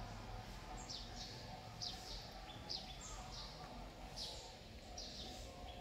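A bird chirping over and over, short high falling chirps about once a second, over a faint steady outdoor background.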